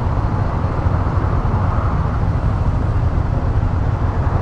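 Steady rumble of riding on a 150cc motorcycle: engine and road noise with wind on the microphone, even throughout.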